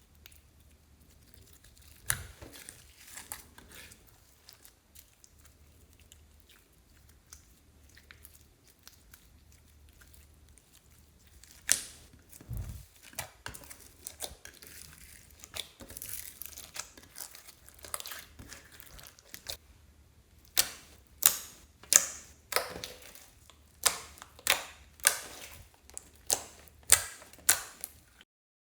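Slime being worked by hand: soft, sticky squishing at first, then from about twenty seconds in a run of sharp pops and clicks, about two a second.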